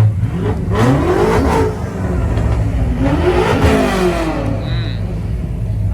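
Car engine idling with a low rumble and revved twice, each rev climbing and falling back over about a second and a half. A brief high whistle comes near the end.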